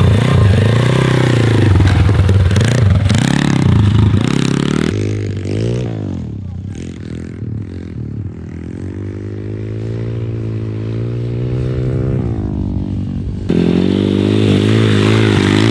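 A pit bike's small single-cylinder four-stroke engine is being ridden, revving up and falling back, its pitch rising and sinking with the throttle. About a third of the way in the sound abruptly turns quieter and duller, with a long steady pull, then falls away; near the end it is abruptly loud again.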